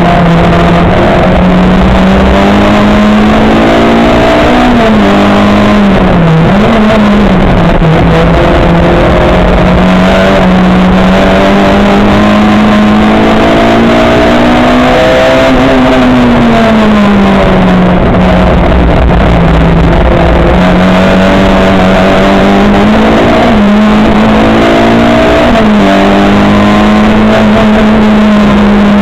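Racing car's engine running hard at constant high level, its pitch swelling and falling with the throttle and dipping briefly a few times, as at gear changes.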